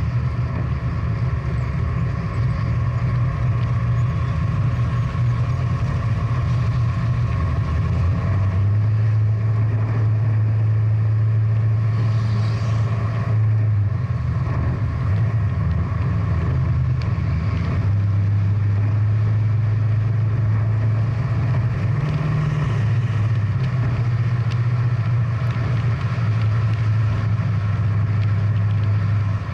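Big-block V8 muscle car engine running steadily with a low, continuous engine note that shifts a little in pitch a few times.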